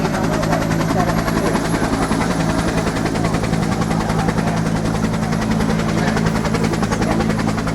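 UH-1 Huey helicopter running, its two-bladed main rotor beating rapidly and evenly over the steady drone of its turbine engine.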